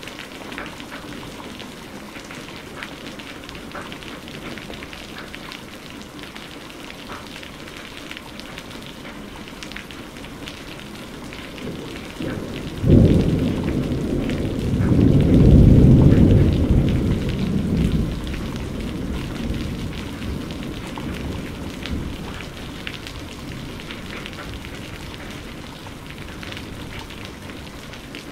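Steady rain falling, with a clap of thunder about halfway through: a sudden crack that rolls into a deep rumble, loudest a few seconds later, then dies away.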